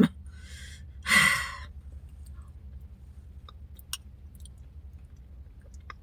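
A person sighs: one breathy exhale about a second in, followed by a few faint scattered clicks.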